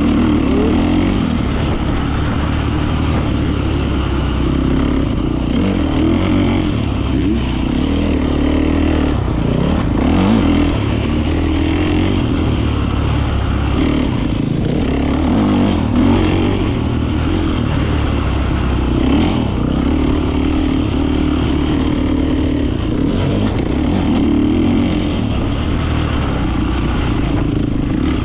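Beta 450 RX four-stroke single-cylinder dirt bike engine running continuously, its pitch rising and falling as the throttle is worked.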